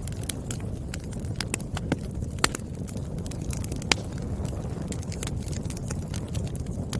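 Wood fire burning: a steady low roar of flames with irregular crackles and snaps from the burning firewood, the sharpest pops about two and a half and four seconds in.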